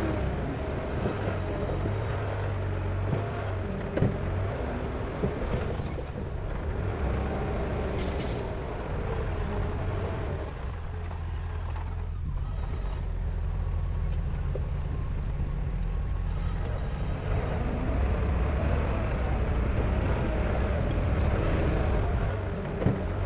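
Diesel engine of heavy earthmoving equipment running under load, easing off in the middle and working harder again near the end, with a few sharp metallic knocks.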